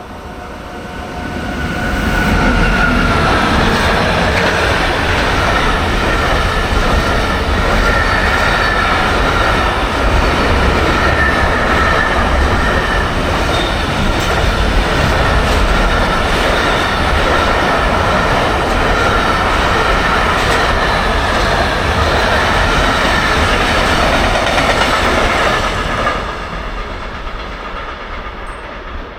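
A train passing close by. The noise builds over the first two seconds and stays loud for over twenty seconds as a low rumble with a steady high whine, then drops off sharply near the end.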